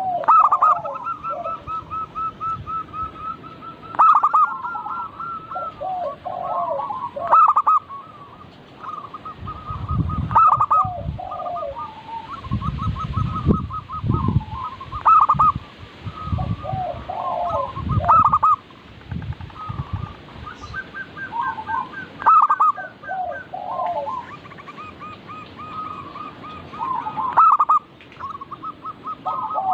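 Zebra doves (perkutut) cooing in overlapping phrases: rapid trilled coos with a loud sharp note recurring every three to four seconds. A low rumble comes and goes through the middle.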